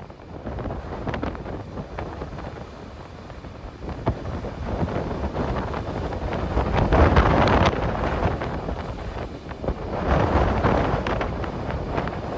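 Strong wind buffeting the microphone in gusts, swelling loudest about seven seconds in and again near ten seconds.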